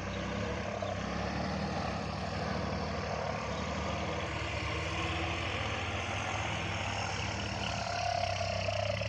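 Kubota MU4902 tractor's diesel engine running steadily while it works a field with a disc plough.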